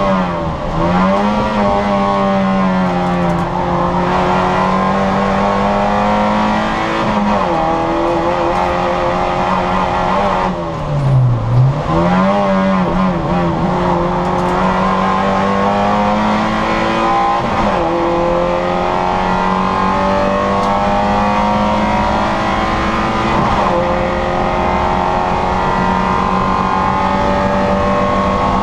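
Citroën Saxo VTR's four-cylinder engine running hard at high revs. Its pitch drops briefly and climbs again several times at gear changes, with the deepest drop about a third of the way in, as it slows for a corner and picks up again.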